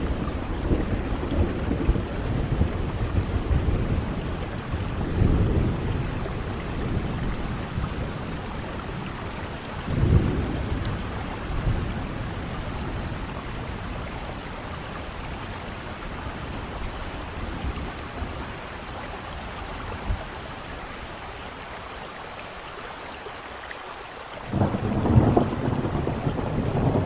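Steady heavy rain with rolling thunder: low rumbles swell several times, fade to a quieter stretch of rain in the second half, and a fresh roll of thunder comes in near the end.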